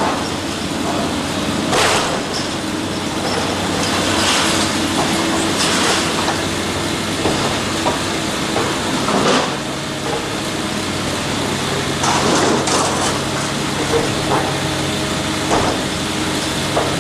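Heavy construction machine's diesel engine running steadily, with short crunching, scraping bursts every two to three seconds as material is worked.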